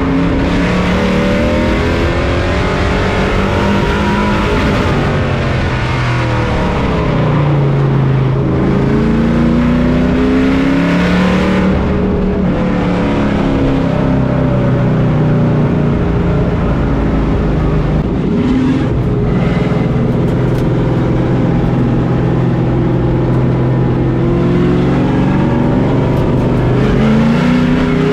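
Pro Truck race truck's engine heard from on board, running hard around the track. Its pitch drops as the driver lifts for the turns and climbs again on the straights, several times over.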